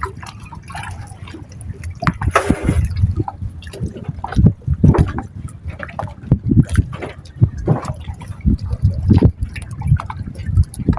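Seawater sloshing and lapping, with irregular splashes and a louder gush about two and a half seconds in.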